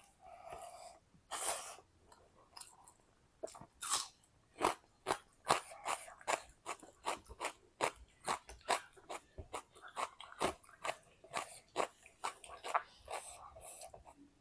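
A person chewing crisp, crunchy food, with a steady run of sharp crunches about two a second.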